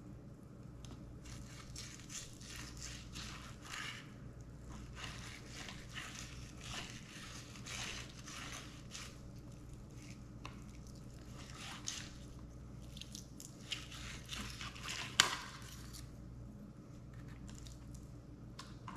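Fillet knife cutting and scraping through a spotted seatrout fillet on a cutting board: quiet, irregular crackling and scraping strokes, with one sharp knock about fifteen seconds in. A steady low hum runs underneath.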